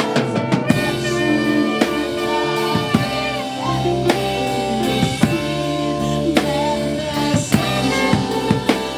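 Live gospel band playing an instrumental passage: drum kit with snare and bass drum keeping a steady beat under sustained keyboard and bass notes.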